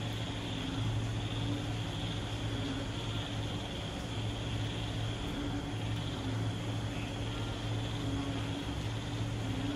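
Moderate rain falling steadily in an even hiss, with a frog and insect chorus under it: a low drone that swells and fades every second or two and a steady high buzz.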